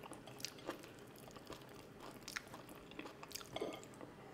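A person biting and chewing boiled okra close to the microphone: faint, scattered small clicks and wet mouth noises.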